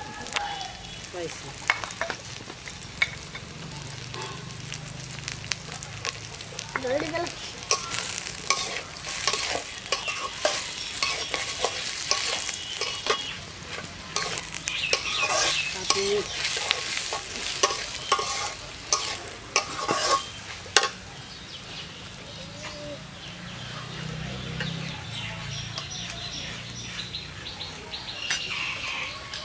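Sliced onions and garlic frying in a metal karahi, sizzling steadily while a metal spatula scrapes and clinks against the pan as they are stirred. The scraping comes thick and fast through the middle stretch.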